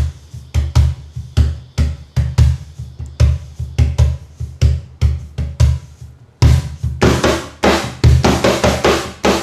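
Cajon played by hand, with deep bass strokes and lighter tip strokes in a soft, steady rhythm. About six seconds in it breaks into a much louder, denser passage with sharp, bright slaps.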